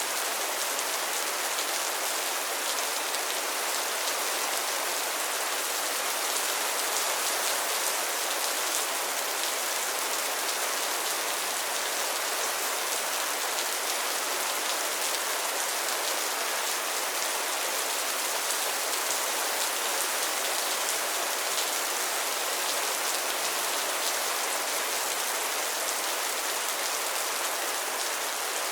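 Steady rain falling on pond water and lily pads: a dense, even hiss of many small drops that does not change.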